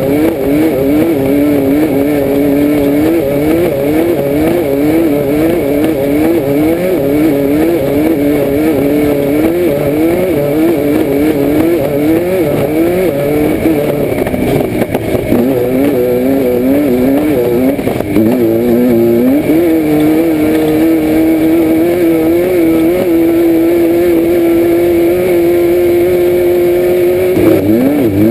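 Class 5/1600 Baja Bug's air-cooled 1600 cc VW flat-four engine, heard from inside the car while it races off-road. The revs climb and drop again and again, about once or twice a second, then hold steady at high revs for several seconds from about two-thirds of the way in, before climbing and falling again near the end.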